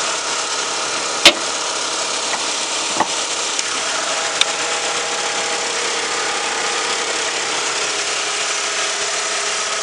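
LDV G10 van's 2.4-litre petrol engine idling steadily, with a sharp click about a second in and a couple of lighter ticks after.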